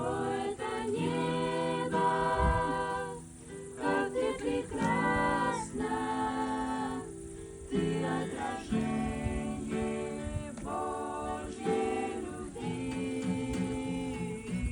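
Voices singing a Christian song to a strummed acoustic guitar.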